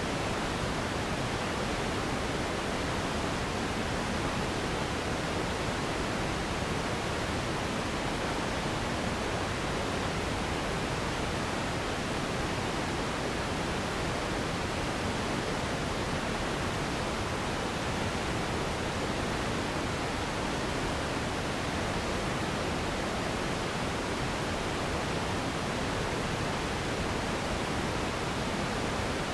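Steady, unchanging synthetic noise for sleep: an even rushing hiss spread from the bass up, thinner in the highest treble.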